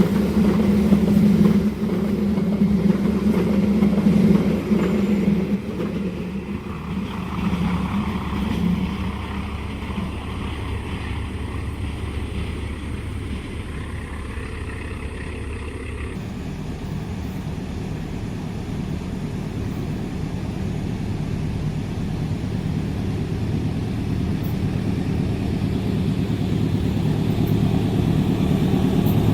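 A diesel-hauled passenger train runs past, its engine hum fading over the first ten seconds or so. After an abrupt change partway through, a steady diesel engine hum slowly grows louder.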